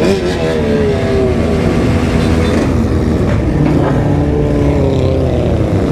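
Remapped sport motorcycle engines running under way, their pitch rising and falling as they rev through the gears, with more than one bike heard at once.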